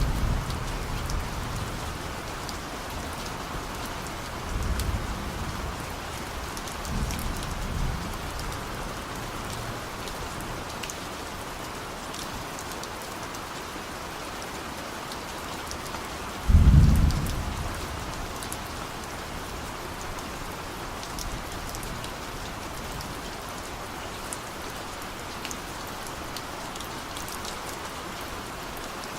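Steady heavy rain falling, with a few low rumbles of thunder. The loudest rumble starts suddenly a little past halfway and fades over about a second.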